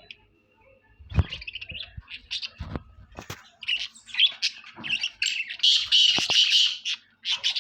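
Birds chirping and squawking in quick, short, high calls that grow denser toward the end, with two sharp knocks, one about a second in and one near three seconds in.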